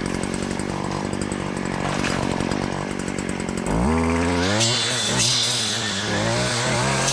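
Brush cutter with a steel blade running at low speed, then throttled up about four seconds in, its engine pitch wavering up and down as the blade cuts through weeds and brush.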